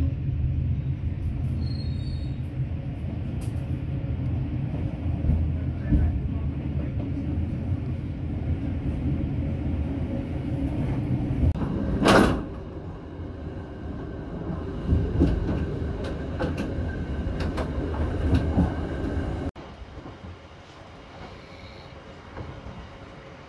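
Passenger train running, heard from inside the coach: a steady low rumble of wheels on track with scattered clacks, and one loud short burst of noise about twelve seconds in. Near the end the sound drops suddenly to a quieter running noise.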